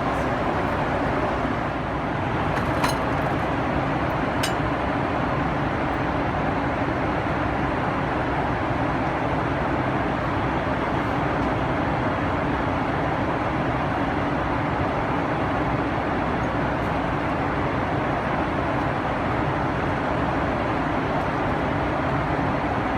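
Steady cabin noise of a Boeing 777-300ER in flight: an even rush of airflow and engine noise with a faint hum. Two small clicks come about three and four and a half seconds in.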